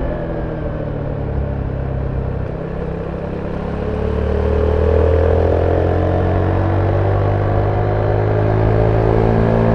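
Zontes 310V motorcycle's engine through its stock exhaust, heard on board while riding. The engine note eases off briefly, then the bike accelerates about four seconds in, rising in pitch and getting louder, and holds a steady pull.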